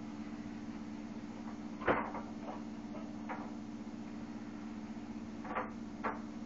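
A skillet being handled while grease is poured off the browned chicken: a sharp knock about two seconds in, lighter clinks, and two more knocks near the end, over a steady low mechanical hum.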